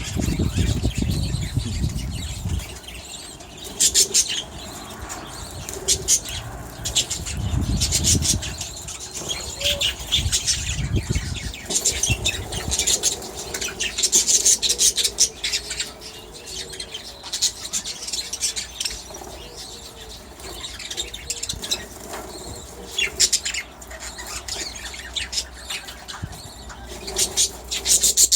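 Budgerigars in an aviary flapping their wings and chirping, in repeated short flutters.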